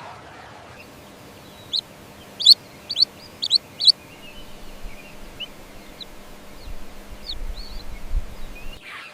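Baby chicks peeping: a quick run of about five short, high peeps, then fainter scattered peeps.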